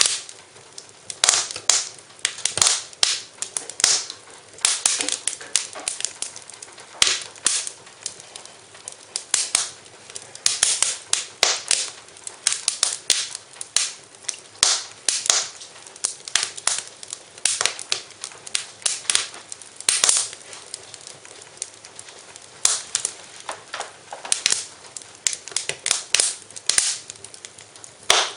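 Wood fire in a fireplace crackling, with irregular clusters of sharp pops and snaps, several a second.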